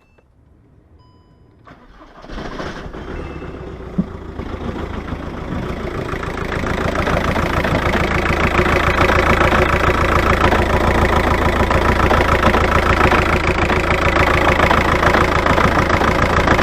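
A VW Touran's 2.0 TDI BKD diesel engine being started for the first time after a new fuel filter is fitted: it is cranked from about two seconds in, builds up over several seconds and then settles into a steady diesel idle.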